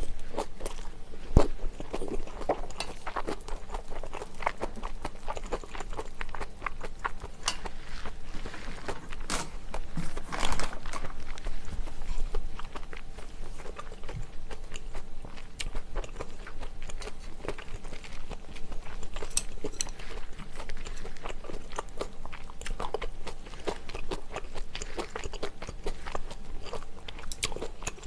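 Close-miked chewing of egg fried rice and shredded pork in sweet bean sauce: a steady run of small wet clicks and smacks. A sharper knock comes about a second in, and a louder stretch follows around the middle, alongside a wooden spoon working in a stainless steel bowl.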